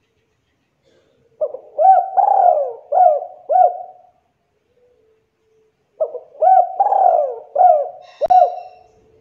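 Spotted dove (tekukur) cooing: two phrases of several coos each, the first starting about a second and a half in and the second about six seconds in, with a short silence between. A sharp click cuts through the second phrase near the end.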